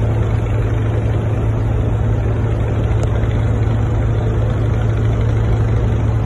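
Ship's engine running with a steady low drone and an unchanging hum.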